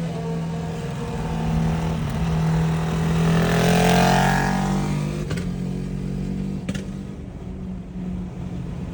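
Superbike with a titanium full exhaust running at highway speed, a steady engine drone. It swells louder about halfway through with a falling pitch, then settles back.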